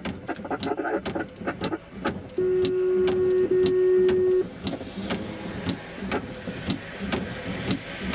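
Radio scanner static with sharp crackles, several a second, and a steady single-pitch radio tone about two seconds long, starting a little over two seconds in; the tone is the loudest sound.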